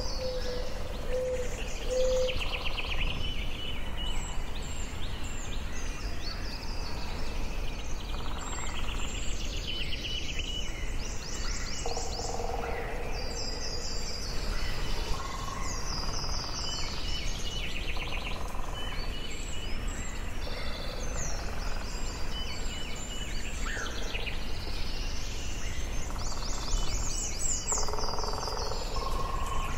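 Forest birdsong: several birds chirping and singing rapid high trills, with a few lower whistled notes, over a steady low background noise.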